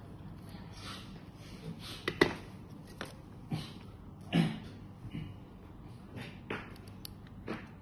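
Irregular light clicks and taps from handling a battery pack, its wires and the PCB. The loudest click comes about two seconds in and a heavier knock at about four and a half seconds.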